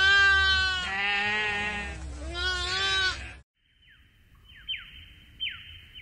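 A group of lambs bleating, several wavering calls overlapping one after another, cutting off abruptly about three and a half seconds in. Then comes a faint run of short, high, falling chirps.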